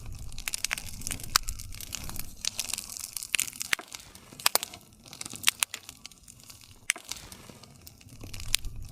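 Wood campfire crackling: many sharp, irregular pops and snaps over a low, steady rumble of the burning fire.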